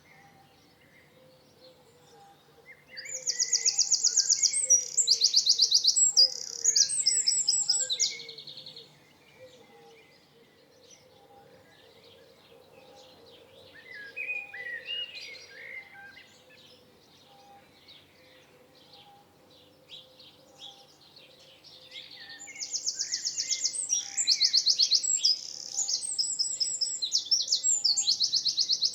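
Songbird singing: two loud bouts of rapid, high trilled phrases, one a few seconds in and one near the end, with softer chirps in between.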